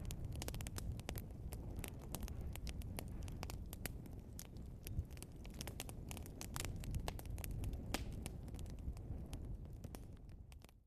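Logs burning in a fireplace: dense crackling and popping of the burning wood over a low rumble of the flames. The sound fades out near the end.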